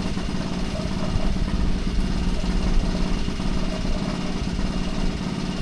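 Small pull-started petrol engine of a concrete mixer running steadily at an even speed.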